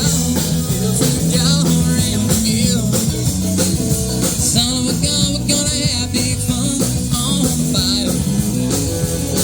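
Live rock band playing an instrumental passage, with lead guitar lines over bass and drum kit.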